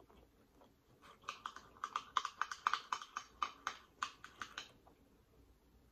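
Close-miked chewing of crispy fried food: a quick run of sharp crunches, about five a second, starting about a second in and dying away after a few seconds.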